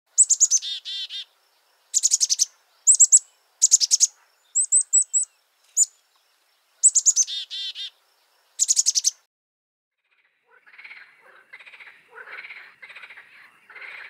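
A songbird singing short phrases of rapid repeated high notes, about eight phrases over nine seconds. After a pause, frogs start croaking in a pulsing chorus for the last few seconds.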